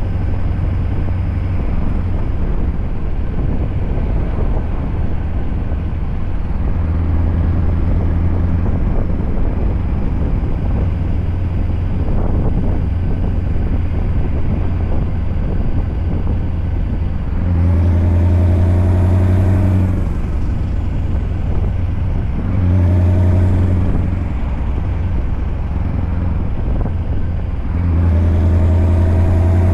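Scania V8 diesel truck engine running with a steady low drone. Its note swells louder and fuller three times in the second half.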